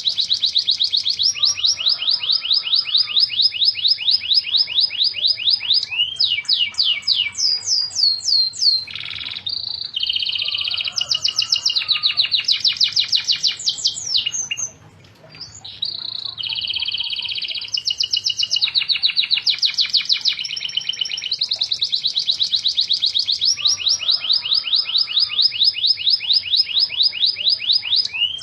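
Domestic canary in full, continuous song: long, fast trills of rapidly repeated notes, with a short break about halfway through before the song picks up again.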